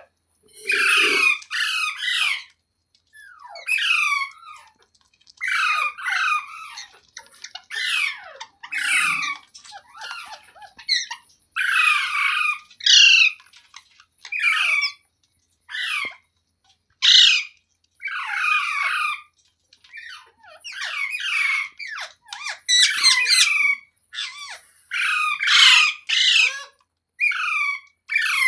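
A parrot squawking over and over, short harsh calls about one a second with brief pauses between runs.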